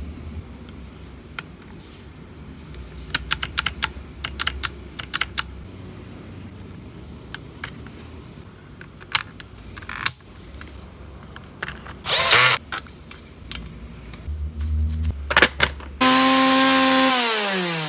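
Stihl MS 180 chainsaw's small two-stroke engine idling with scattered clicks, with a brief louder burst about twelve seconds in. Near the end it is revved hard, then the pitch falls away as the throttle is released.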